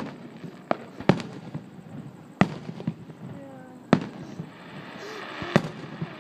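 Aerial firework shells bursting: about six sharp bangs at irregular intervals of one to one and a half seconds, each trailing off in a short echo.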